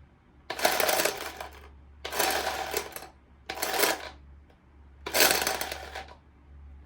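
Four bursts of rattling, scraping handling noise from a toy washing machine being unboxed, each about a second long.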